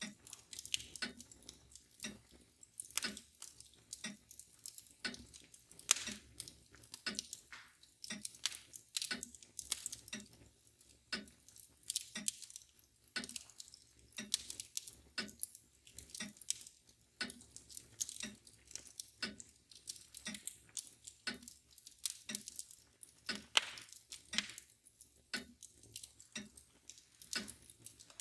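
Wood fire crackling, with irregular sharp snaps and pops, over the steady ticking of a mantel clock.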